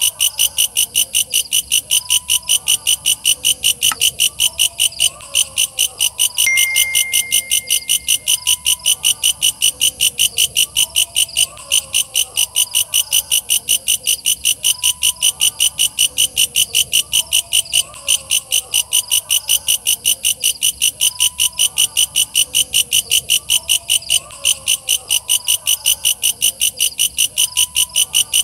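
Walang kecek katydid calling: a fast, even train of loud, rasping chirps, about four a second, over a fainter chorus of other night calls.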